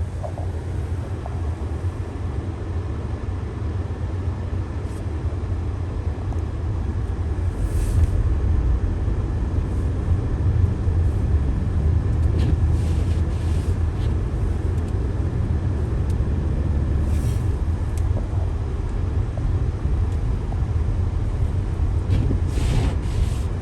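Steady low rumble of a car on a snowy road, a little louder about eight seconds in. A few short hissing swishes come and go.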